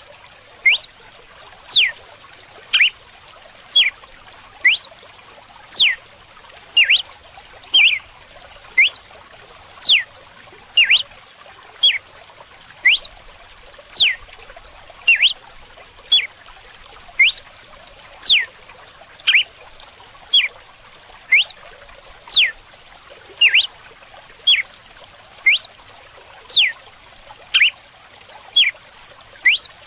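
Red-cowled cardinal (galo-de-campina) singing its 'açoite' (whip) song: sharp, whip-like notes about once a second, many sweeping quickly down in pitch. Under them runs a soft, steady trickle of water.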